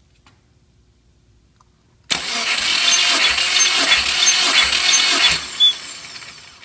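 Subaru EJ205 flat-four engine turned over by its starter motor, as in a compression test. The cranking starts suddenly about two seconds in with a rhythmic pulse about three times every two seconds, and stops after roughly three seconds, then fades away.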